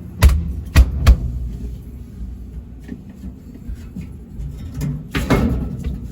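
Three sharp knocks in quick succession, then a rattling scrape near the end, with a few light clicks between: parts and hardware being handled while a replacement temperature control is mounted in a refrigerated prep table.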